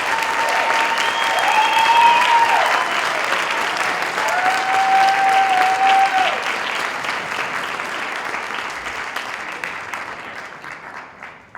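Crowd applauding, with a few long drawn-out cheers over the clapping in the first half. The applause dies away near the end.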